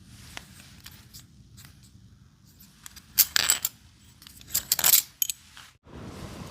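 Small metal objects clinking and scraping against a hard surface, in two short rattling bursts a second or so apart.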